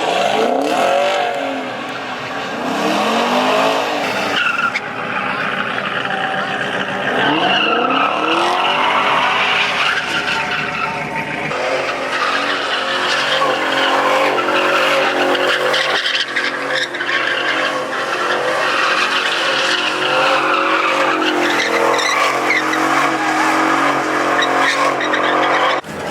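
Car engines revving hard, rising and falling in pitch several times, then held at high revs from about halfway through, with tyres squealing and skidding underneath.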